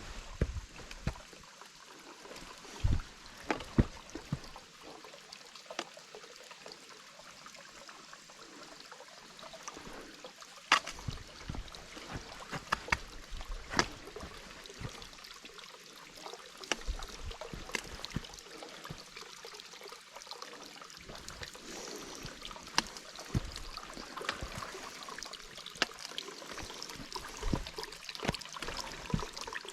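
A weakly flowing woodland waterfall and cascade trickling steadily. Scattered sharp clicks and crunches are heard through it.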